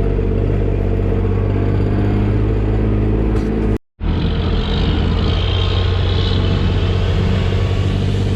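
Dump truck engine running steadily under way while hauling a load of stone. It breaks off for an instant about four seconds in and then carries on.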